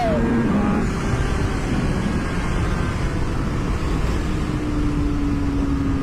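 Motorcycle at high speed: a high engine note falls away just at the start, then a steady rush of wind noise with the engine faint beneath it. A steady low engine drone comes in about four seconds in.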